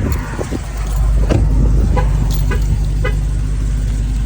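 Supercharged 6.2-litre V8 of a 2023 Dodge Charger Hellcat running at low speed on its stock exhaust, a steady low rumble, with a few light knocks and clicks over it.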